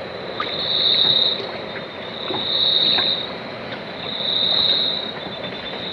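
A high-pitched insect chorus, crickets or cicadas, swelling and fading in pulses about every two seconds, over a steady background hiss.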